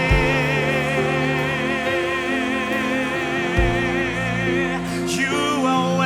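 Live worship band music: a long high held note with a wide, even vibrato over sustained chords, with the bass note changing about halfway through.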